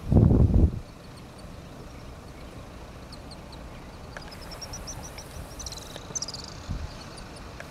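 A brief loud, low rumble at the very start. Then, over a quiet outdoor background, a bird calls a run of short high notes rising in pitch, ending in a buzzy trill.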